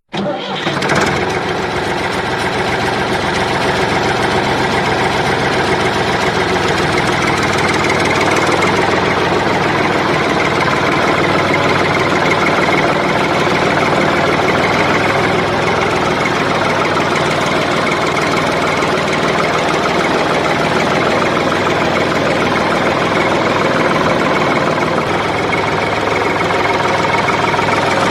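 An engine running steadily at idle, starting abruptly at the beginning and holding level throughout.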